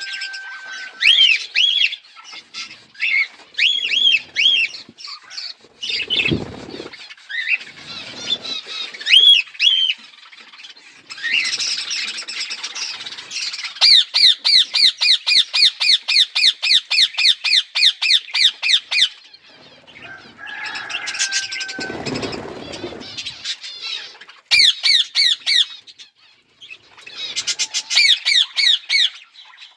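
Budgies calling: short arched chirps, then a long run of fast, evenly repeated squawking calls at about five a second, with more bursts of the same calls near the end. Two low muffled noises come about six and twenty-two seconds in.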